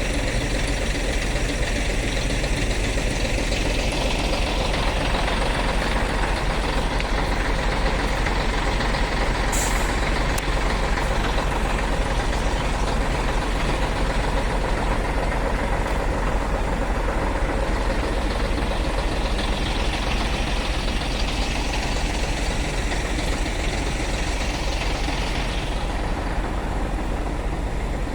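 Scania truck engine running steadily. A brief high hiss comes about ten seconds in.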